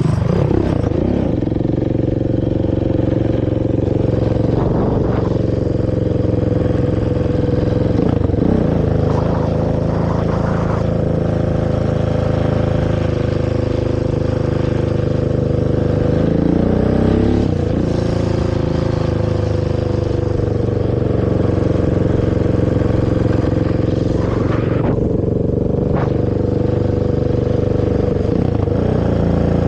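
Honda TRX450R quad's single-cylinder four-stroke engine through its stock exhaust, running under steady throttle while riding. The pitch drops and climbs again a few times, near the start and at about 8, 17 and 25 seconds in, as the throttle is let off and opened back up.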